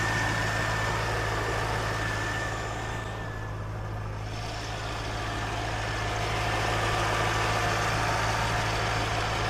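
Chevrolet Corvette C5 Z06's 5.7-litre LS6 V8 idling steadily, heard from the open engine bay, with a thin, steady high whine above the engine note.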